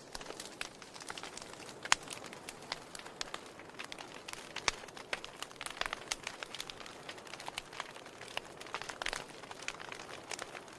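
Wood fire burning in a fireplace, with irregular sharp crackles and pops of burning firewood over a soft hiss.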